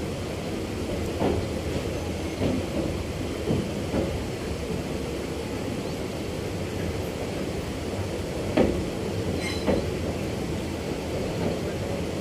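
Passenger train running slowly over a rail bridge, heard from aboard the coach: a steady low rumble of wheels on track with occasional sharp knocks from the running gear.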